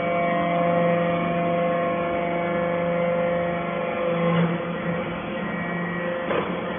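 Steady mechanical hum of a hydraulic steel-shaving baler running, holding an even pitch made of several tones, with a brief rougher noise about four seconds in and again near the end.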